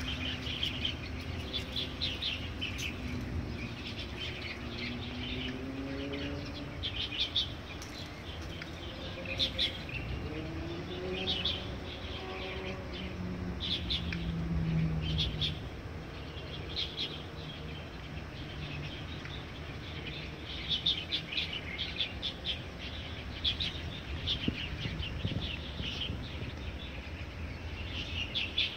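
Songbirds singing and chirping in a spring chorus, short bright phrases repeating every second or two, over a steady low rumble. A low hum that slides up and down in pitch rises under the birds in the middle and fades out.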